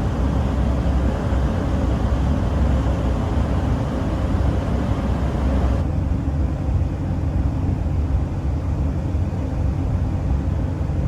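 Steady low rumble of the ferry's engines heard on board the ship. About halfway through, the hiss above the rumble drops away suddenly while the low drone carries on.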